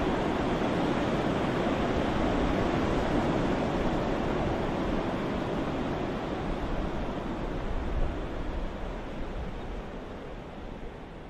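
Ocean waves, a steady rush of surf that slowly dies away over the last few seconds.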